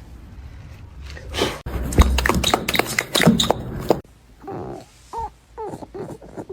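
A quick run of clattering knocks and thumps, then a dog giving several short whines.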